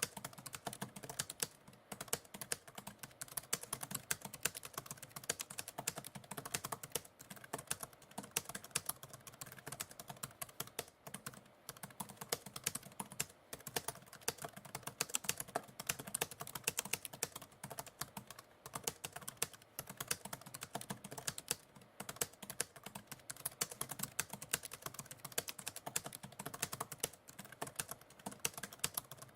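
Continuous typing on a computer keyboard: a steady, irregular patter of key clicks with brief pauses between bursts.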